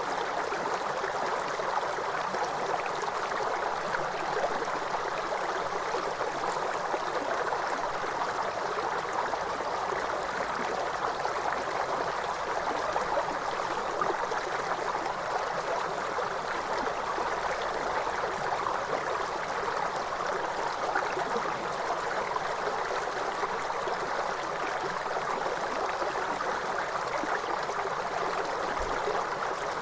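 Waterfall: a steady rush of cascading water, even and unbroken.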